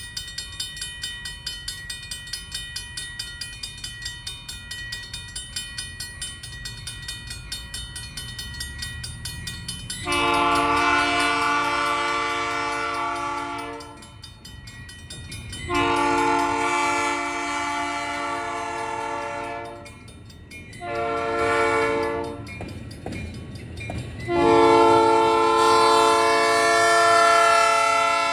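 Railroad crossing bell ringing, about two to three strikes a second, then a locomotive horn sounding the grade-crossing signal: two long blasts, a short one and a long one, the standard warning for an approaching train.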